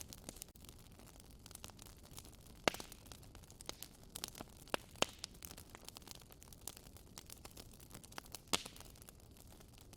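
Wood fire in a fireplace crackling: a quick, irregular run of small pops over a faint hiss, with three louder snaps at roughly three-second intervals.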